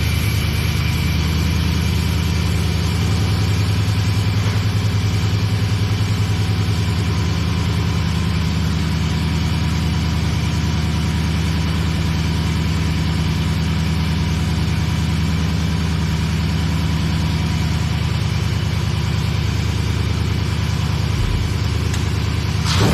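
Freshly built truck engine running at a steady idle on one of its first runs, with its timing still to be fine-tuned.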